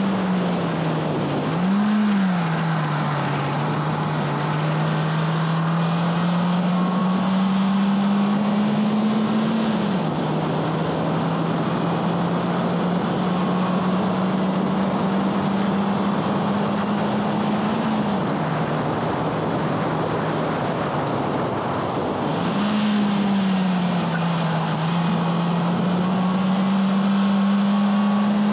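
2011 Honda Fit Sport's 1.5-litre four-cylinder engine driven hard: revs climb slowly under full throttle, then drop sharply several times at shifts. Quick throttle blips about two seconds in and again past twenty-two seconds fit the rev-matched heel-toe downshifts. A steady rush of wind and tyre noise runs underneath.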